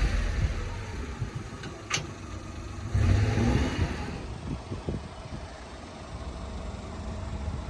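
Honda Acty mini truck's small three-cylinder engine running, swelling briefly about three seconds in, with a single sharp click about two seconds in.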